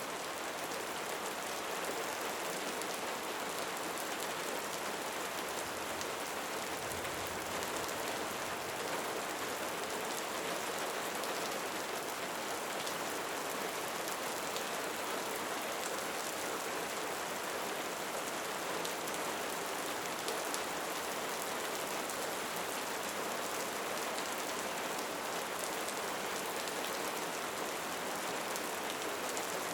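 Steady rain falling: an even hiss of many drops, unchanging throughout.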